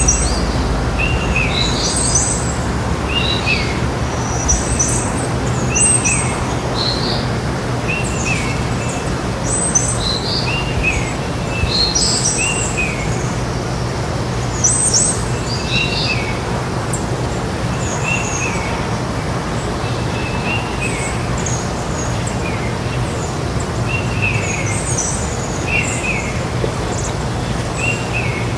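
Several birds chirping and calling in short repeated phrases, over a steady background hiss and a low hum.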